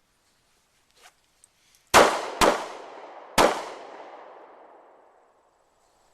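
Three pistol shots fired as a failure drill: a quick pair to the body about half a second apart, then a single shot to the head about a second later. Each shot echoes and dies away, and a faint click comes just before the first shot.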